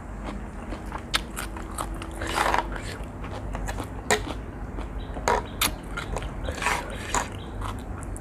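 Close-miked mouth sounds of a person eating spicy seafood instant noodles: chewing and biting with scattered sharp wet clicks and several short noisy bursts.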